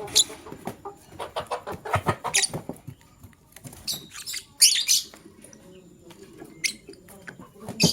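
Lovebirds chirping: a string of short, high-pitched calls with quick chattering runs, the loudest calls coming about four and a half seconds in.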